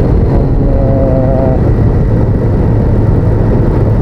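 Honda VTR1000F's V-twin engine running steadily with the bike under way, loud and low-pitched, with a short pitched tone about a second in.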